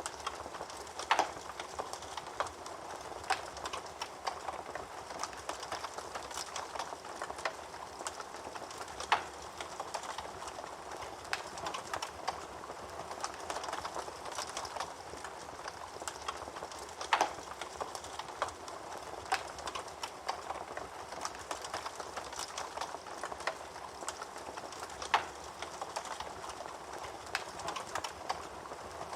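Wood fire burning in a fireplace, crackling steadily with many small snaps and a louder pop about every eight seconds.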